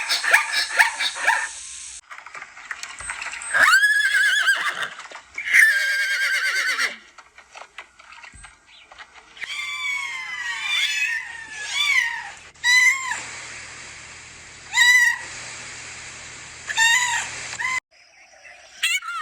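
A string of separate animal calls, one clip after another with abrupt cuts: a rising call, then a longer wavering call, then a series of short falling calls repeated every second or two.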